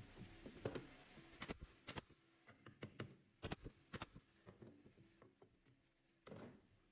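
Faint, irregular light knocks and clicks, a few sharp ones among softer taps, as of tools or pieces of wood being handled.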